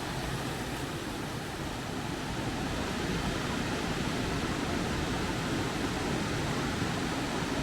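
Steady rushing of river water, an even hiss with no separate events.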